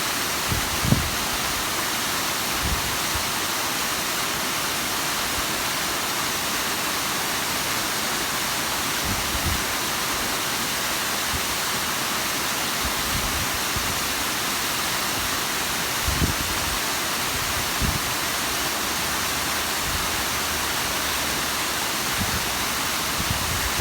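Steady, even rushing of the Bigăr waterfall, with a few brief low thumps about a second in and again around 16 and 18 seconds in.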